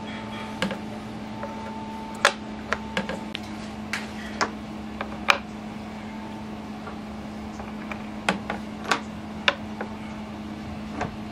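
A dozen or so short, sharp clicks and knocks at uneven intervals over a steady low hum, typical of hand work on a workbench.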